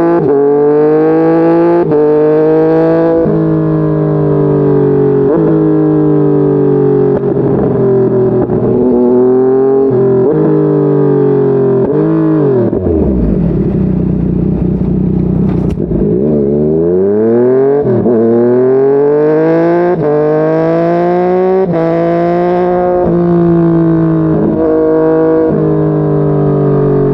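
Yamaha MT-09's inline three-cylinder engine pulling through the gears, its pitch climbing and then dropping at each upshift. About halfway it slows to low revs, the pitch falling away, then accelerates again through several more upshifts.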